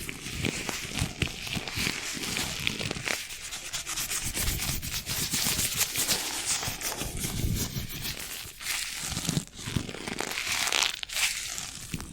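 Close-miked rubbing and scratching on a surface: a continuous crackly texture of many small quick strokes.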